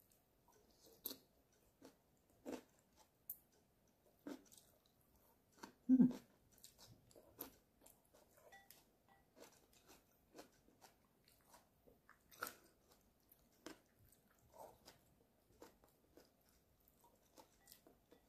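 Close-up chewing and crunching of stir-fried Chinese kale and beef in oyster sauce with rice, with short sharp clicks and mouth smacks scattered throughout. One louder low thump comes about six seconds in.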